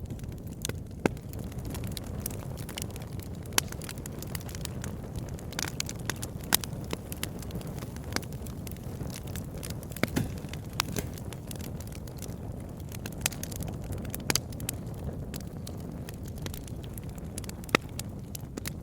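Campfire burning: burning wood crackles and pops at irregular moments over a steady low rumble.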